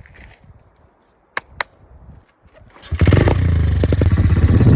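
Two sharp clicks, then about three seconds in a small motorbike engine comes in suddenly and runs loudly with a fast, even beat.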